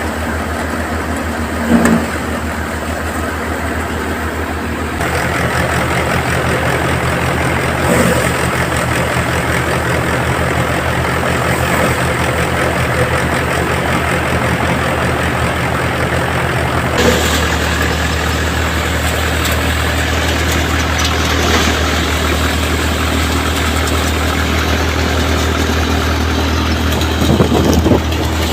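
Tractor engine running steadily, driving a paddy thresher, with the machine's noise jumping up abruptly about five seconds in and changing again around seventeen seconds.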